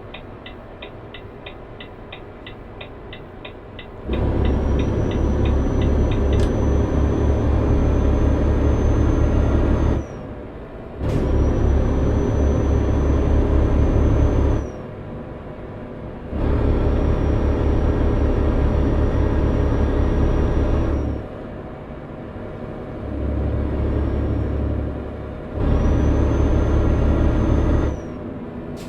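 Semi-truck diesel engine idling with a fast ticking for about four seconds, then pulling hard in five loud spells with a deep rumble and a thin high whistle. The power drops for a second or two between spells, as happens when the driver shifts up through the gears.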